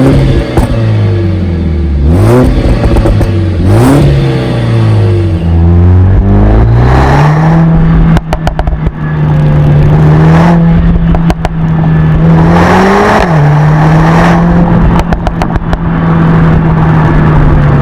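Mercedes-AMG A45 S with a Stage 1 tune, its turbocharged 2.0-litre four-cylinder revved in a few quick blips, then held at steady high revs with a brief rise partway through. The exhaust pops and crackles in several short spells over the held revs.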